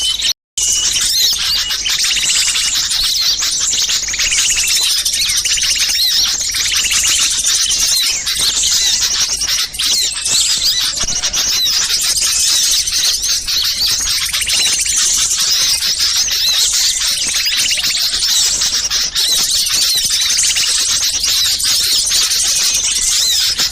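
Dense, unbroken chorus of many small songbirds chirping and twittering noisily over one another: a bird-trapping lure recording of agitated small birds. It drops out to silence briefly about half a second in.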